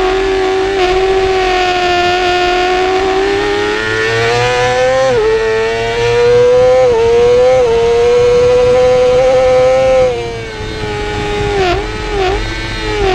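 Yamaha YZF-R6's 599 cc inline-four racing engine at high revs, heard onboard. It pulls hard with quick upshifts about five and seven seconds in and holds flat out. About ten seconds in the throttle closes and the revs fall, with several short dips in pitch near the end as it slows for a corner.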